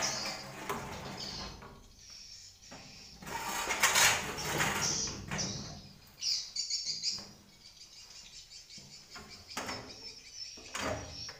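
Swiftlets chirping in short high twitters, with a louder rustling, scraping burst about four seconds in and a sharp click near the end.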